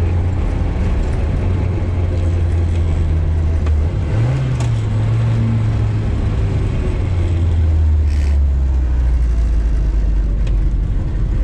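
1960 Austin Mini Countryman's A-series four-cylinder engine running on the move, heard from inside the car over road noise. The engine note rises about four seconds in and drops back lower around seven seconds.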